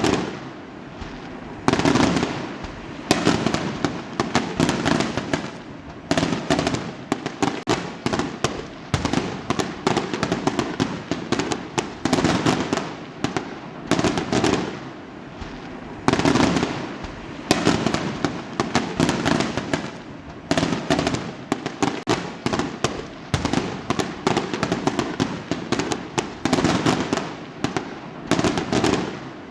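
A fireworks display: a dense run of bangs and crackling bursts, many a second, with louder volleys every couple of seconds and echoing tails.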